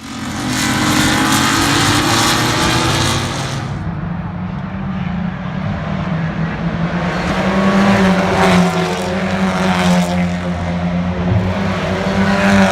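Race car engines running on the circuit: a loud, steady engine note that starts abruptly and holds through, with a hiss on top that falls away about four seconds in.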